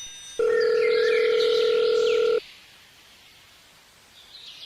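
A steady electronic beep tone, held at one pitch for about two seconds, then cut off sharply. Faint chirping sits high behind it.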